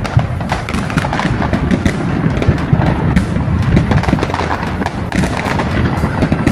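Fireworks going off in quick succession: dense crackling of bursting shells with frequent sharp bangs.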